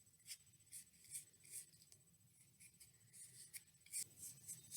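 Faint brush strokes of paint on a cardboard tube, a soft swish about two or three times a second.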